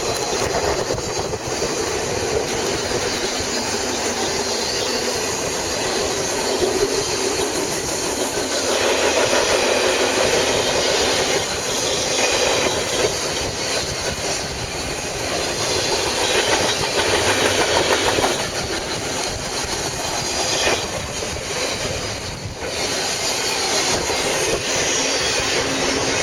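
BNSF freight train passing at about 60 mph, its cars rolling by with a steady rush of wheel and rail noise and clatter over the rail joints, swelling and easing as the cars go past.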